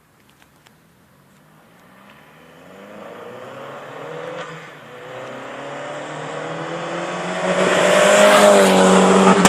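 Opel Corsa D OPC four-cylinder turbo engine and exhaust, the engine note growing steadily louder over several seconds as the car nears, loudest near the end. A few faint clicks come about half a second in.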